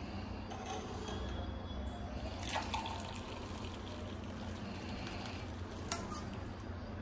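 Water trickling and dripping in a kitchen sink, with light clinks of glass or dishes about two to three seconds in and a single sharp click near the end, over a low steady hum.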